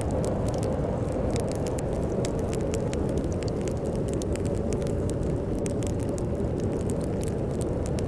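Fireplace crackling, with many sharp irregular pops and snaps, over a steady low rumble of storm wind.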